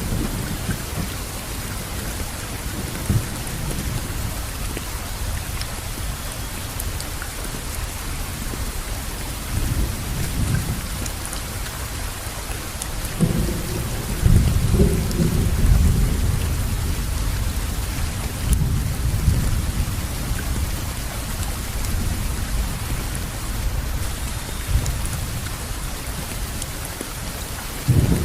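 Steady rain falling, an even hiss, with deep rumbles of thunder swelling about halfway through and again near the end.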